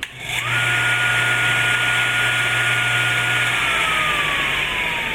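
Cuttermaster CM-01 end mill sharpener's grinding wheel motor switched on with a click, whining up to speed within half a second and running steadily with a hum. About three and a half seconds in it is switched off, and the whine falls in pitch as the wheel spins down.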